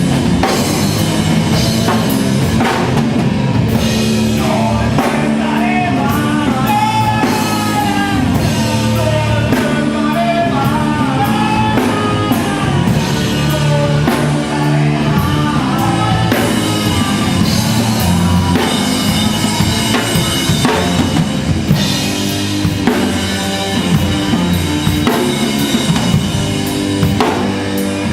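Live rock band playing at full volume: drum kit, bass and guitars. A melodic line rises and falls in pitch over the band through the middle of the passage.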